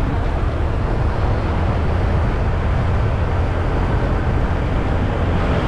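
Steady motorcycle riding noise on a helmet-mounted GoPro: constant wind rush and low rumble from the moving bike, with no change through the stretch.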